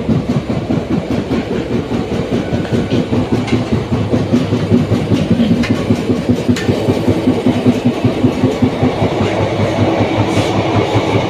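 Running noise of an Indian Railways express train heard from inside its pantry car: a steady rumble with a rapid, rhythmic wheel clickety-clack and a few light metallic clicks.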